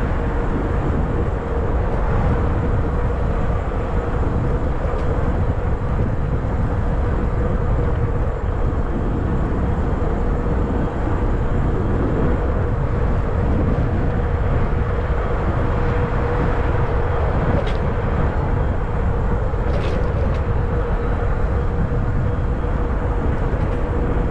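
Wind rumble on the microphone and rolling noise from a fat-tire folding e-bike on the move, with a steady hum running through it. A couple of brief ticks come near the end.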